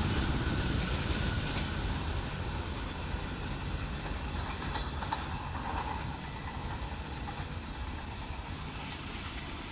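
Train running past on the rails, its rumble slowly fading as it moves away.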